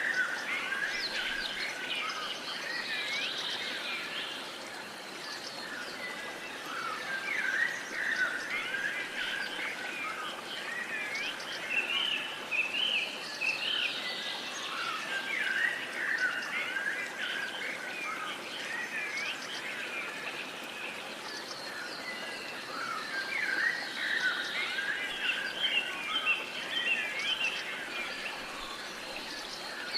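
Many birds chirping and singing at once, a dense overlapping chorus of short rising and falling calls, over a light steady hiss of outdoor background noise.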